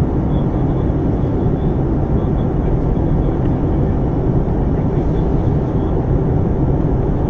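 Steady, loud cabin noise of an Airbus A320-family jet airliner with its engines running: a constant deep rumble of engines and airflow, with a faint high steady tone above it.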